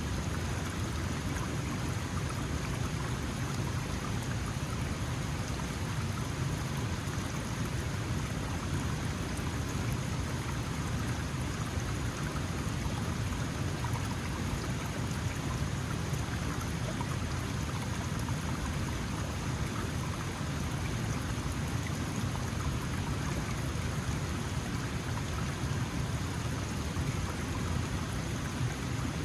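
Small mountain stream flowing steadily over rocks, an even rushing and splashing of water.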